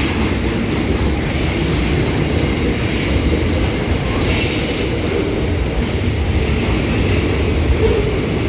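SCT freight train rolling through the station, a steady rumble of wheels on rail with rail noise swelling every second or so as the wagons pass.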